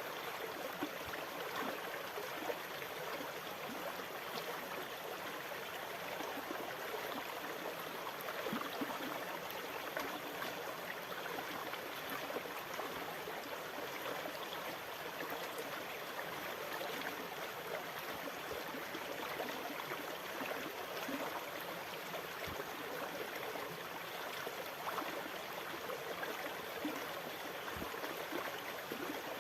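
Continuous rushing, bubbling water with fine crackling, at an even level with no rise and fall of separate waves breaking.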